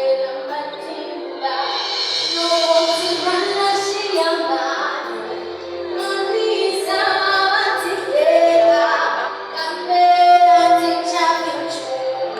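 Children singing together with a woman's voice over a musical accompaniment with a stepping bass line.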